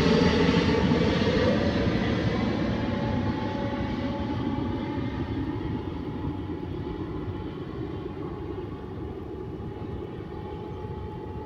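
Jet engines of a Boeing 787-8 airliner, a steady roar with faint whining tones. It fades steadily and loses its hiss as the aircraft moves away.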